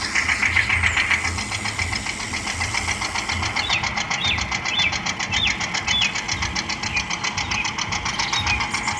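A small engine on a miniature machine running steadily with a fast, even putter. Birds chirp a few times in the middle.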